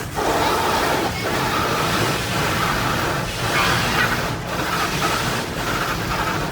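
Automatic tunnel car wash heard from inside the car: a steady rush of spraying water and wash equipment working over the car's body, with brief dips in the noise about once a second.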